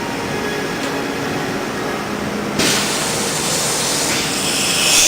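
CNC drilling machine running with a steady mechanical noise; about halfway through a loud hiss starts suddenly and keeps on.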